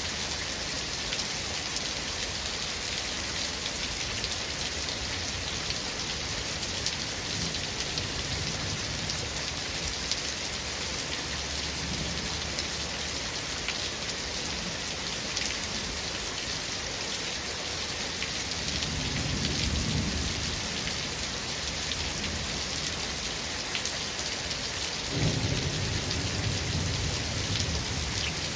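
Steady rain falling, with thunder rolling in the background. A low rumble swells about two-thirds of the way through, and near the end a sudden, louder clap keeps rumbling on.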